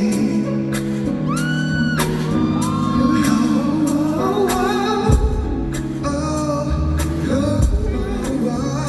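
Live pop song: a male lead vocal singing over a band track with sustained bass notes and a steady drum beat.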